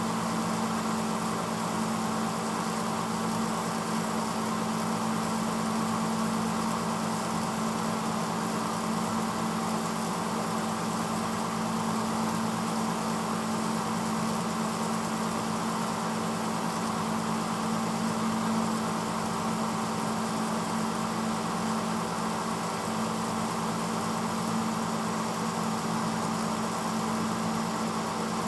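1986 Hotpoint Potwasher dishwasher running steadily mid-cycle: a constant motor hum under an even rushing noise.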